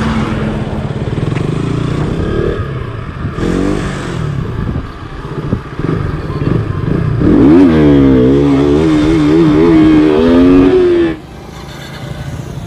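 KTM RC sport bike's single-cylinder engine heard from on the bike while riding. About halfway in it revs hard, its pitch rising and falling over and over for a few seconds, then the sound drops off sharply to a quieter passing motorcycle near the end.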